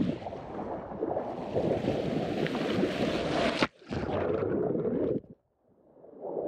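Wind buffeting the microphone over the rush of sea water aboard a sailboat under way. It cuts out abruptly about three and a half seconds in, comes back, then drops to silence a little after five seconds before fading back in.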